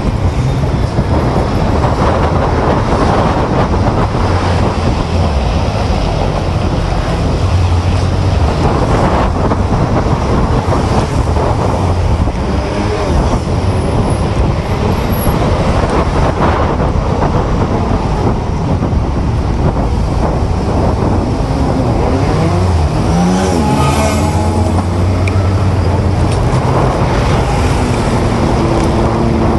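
Steady city street traffic and road noise. About 22 seconds in, an engine drops and climbs in pitch, and near the end an engine note starts to rise.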